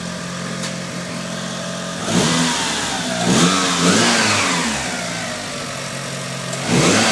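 Mitsubishi Lancer Evo I engine idling steadily, then blipped up in revs three times in quick succession about two seconds in, each rev rising and falling back. It settles to idle and is revved once more near the end.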